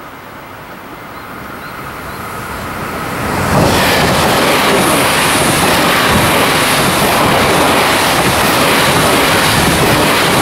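JR 383-series limited express electric train passing at speed. Its wheels rumble and rush on the rails, growing steadily louder as it approaches, then a loud, even roar from about three and a half seconds in as the cars run by close to the track.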